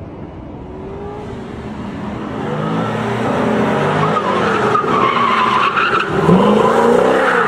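A car engine revving hard, its pitch rising and falling, with tyres squealing from about halfway in; the sound grows steadily louder.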